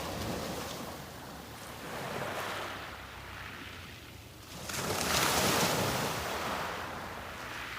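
Sea waves breaking on the shore and washing back, in rising and falling swells of surf. A bigger wave breaks about two-thirds of the way through.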